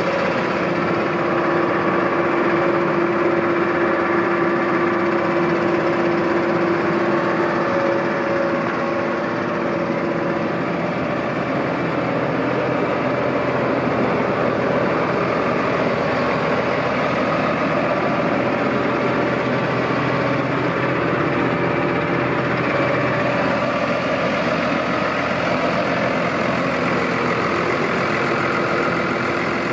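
New Holland T6.180 tractor's six-cylinder diesel engine running steadily, with an even tone and no change in speed.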